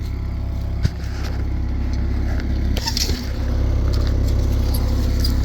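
Yanmar four-cylinder diesel engine of a New Holland E60C excavator running steadily at idle, with a sharp click about a second in and some rattling around three seconds; the engine gets a little louder from about three and a half seconds in.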